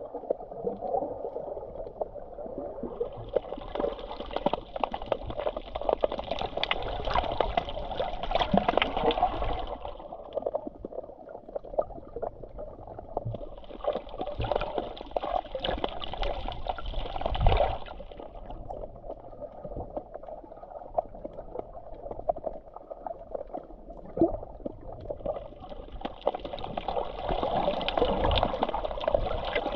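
Sea waves washing in and out at the shore, the surge of water swelling three times. There is a brief low knock about halfway through.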